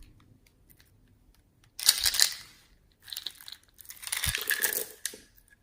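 Slime being squeezed and worked by hand, with sticky crackling and popping in three bursts; the first, about two seconds in, is the loudest.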